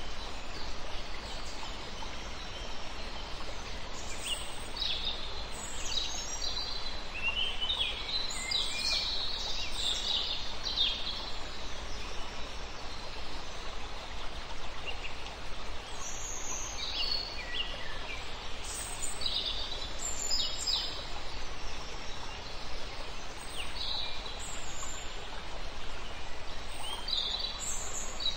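Small birds chirping in scattered clusters of short, high calls over a steady background hiss.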